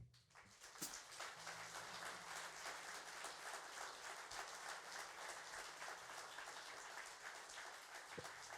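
Audience applauding: clapping that starts as the last note of the song stops and builds within about a second into steady applause.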